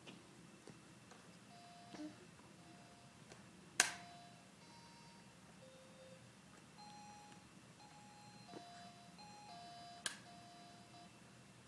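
Toy book piano's electronic keys played one note at a time, short beep-like tones at different pitches in an uneven, halting sequence. Two sharp knocks, about four seconds in and near the end, are the loudest sounds.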